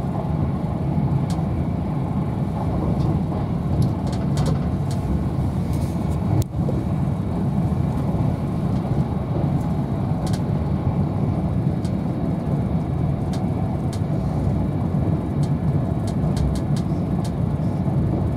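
Steady low rumble inside the passenger coach of a Class 390 Pendolino electric train running at speed, with faint scattered ticks over the top.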